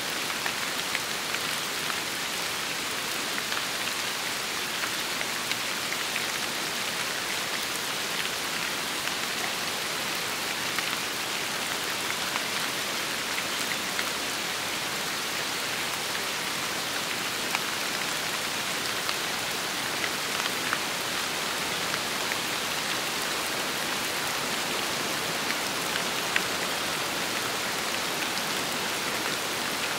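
Steady rain falling, with a constant hiss and many individual drops ticking on a surface.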